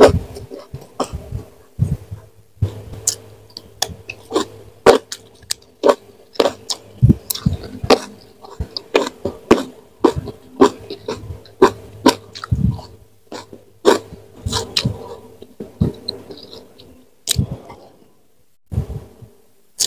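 A person chewing food close to the microphone: an irregular run of wet mouth smacks and clicks, a couple every second.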